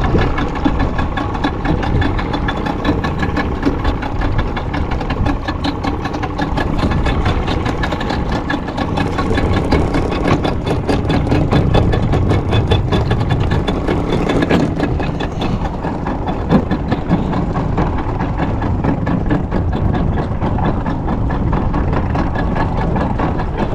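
A fishing boat's engine running steadily at a constant pitch, with a fast, even pulsing throughout.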